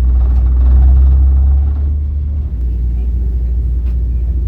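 Ferry engine rumbling steadily, heard on board. It swells slightly, then eases about two and a half seconds in.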